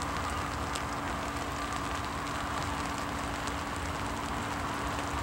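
Steady hiss of rain with scattered faint drop ticks, over a faint steady hum: the distant grumble of an approaching diesel-hauled train.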